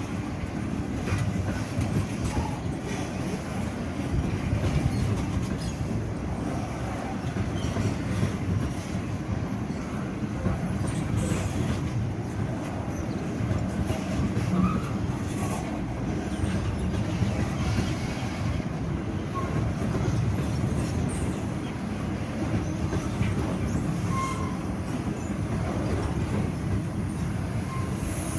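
Wagons of a grain train rolling past on the track: a steady rumble of steel wheels on rail, with scattered clicks and brief faint wheel squeals.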